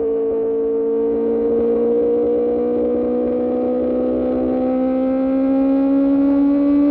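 QJMotor SRK600 inline-four engine through an Austin Racing exhaust, pulling steadily in one gear with the revs rising slowly and evenly.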